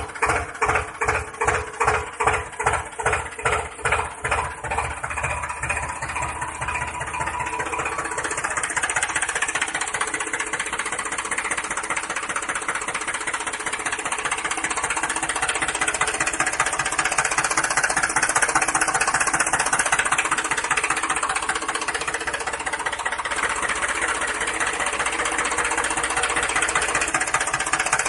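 Small motor of a miniature DIY tractor running steadily with a fast, dense rattle. A pulsing sound at about two beats a second fades out over the first five seconds.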